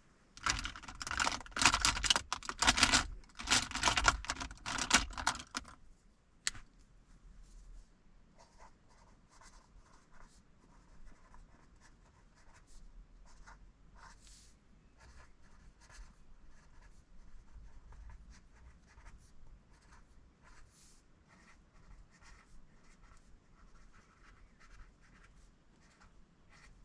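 Loud, rough rubbing and scratching on paper for about five seconds, then a pen writing on paper in short, faint strokes.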